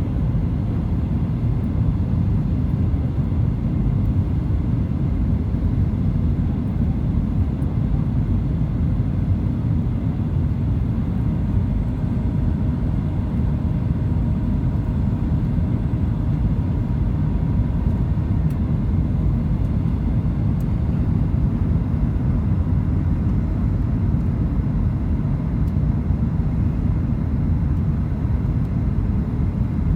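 Steady low rumble of airliner cabin noise inside a Boeing 737-900 in flight: engine and airflow noise with no breaks.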